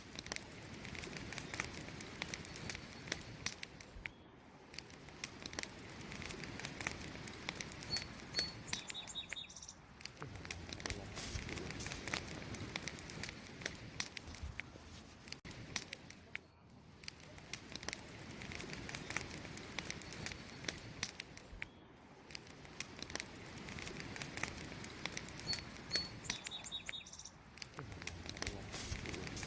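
Wood fire crackling, with many sharp pops and snaps over a soft hiss that swells and fades. A short high double chirp sounds twice, about 17 seconds apart.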